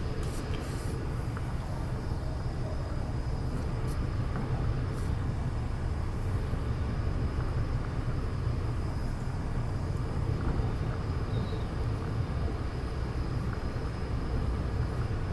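Hyundai Rotem R-train electric multiple unit running at speed, a steady low rumble heard from inside the carriage, with a faint steady high whine.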